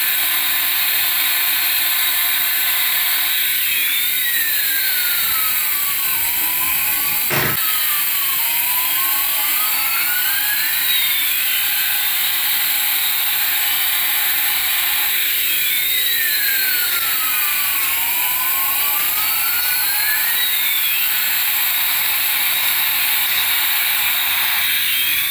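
Electronic engine sound effect from a toy's speaker: a steady hiss with slow whooshing sweeps that rise and fall over and over, and one sharp click about seven seconds in.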